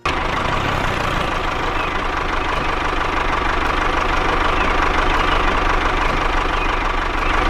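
A motor running steadily at an even pitch after cutting in abruptly, with a constant low hum.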